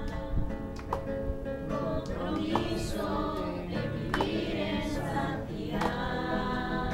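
A group singing together to a strummed acoustic guitar.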